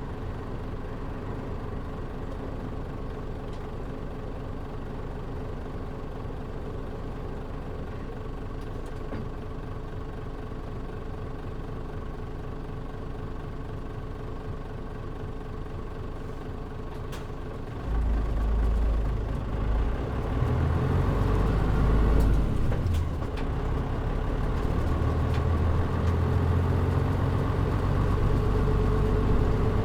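Diesel engine of a Mitsubishi Fuso Aero Star KL-MP37JM city bus idling steadily, then about eighteen seconds in it grows louder and deeper as the bus pulls away under power. The engine dips briefly a few seconds later, then climbs again.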